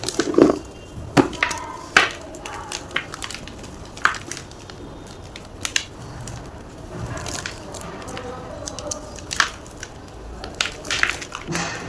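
Gym chalk crunching and crumbling: irregular sharp cracks, loudest in the first couple of seconds, with a softer gritty rustle between them.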